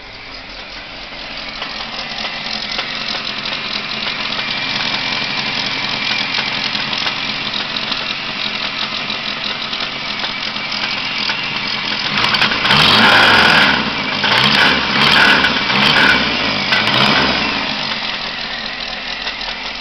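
The 1985 Ford Capri's newly fitted four-cylinder engine running just after firing up, building over the first couple of seconds, then blipped several times in quick succession about twelve seconds in, pitch rising and falling with each rev. It runs rough with its ignition timing not yet set; the owner notes an exhaust leak and a knocking noise he has yet to trace.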